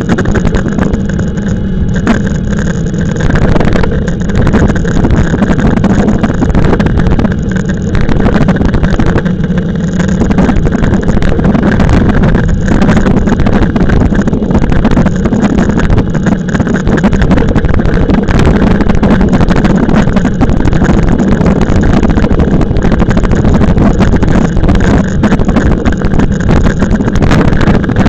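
Wind rushing over the microphone of a moving e-bike ride, a loud steady rush heaviest in the low end, with the rumble of the bike on the road.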